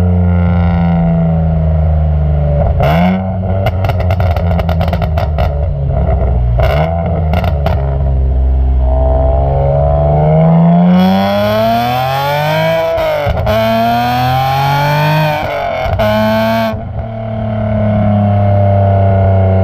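BMW E46 M3's S54 straight-six, with aftermarket headers, muffler and a burble tune, idling, then blipped with a rapid string of crackles and pops. Around the middle it is revved up twice, rising in pitch each time, crackles again as it comes off the throttle, and settles back to a steady idle near the end.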